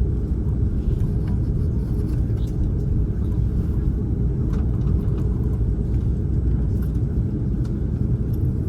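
Steady low rumble inside the main cabin of an Airbus A330-243 taxiing, from its Rolls-Royce Trent 700 engines at low power and the gear rolling along the taxiway, with a few faint clicks.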